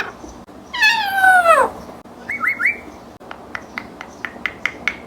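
African grey parrot calling: one long falling whistle-like call, then three quick rising chirps, then a run of short sharp clicks at about four a second.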